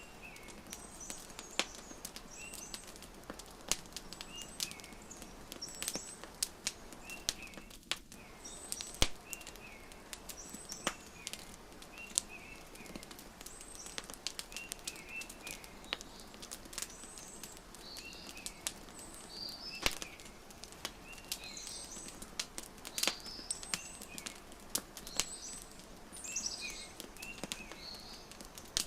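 Wood fire crackling with irregular sharp pops over a soft steady hiss, while small birds chirp repeatedly with short high calls.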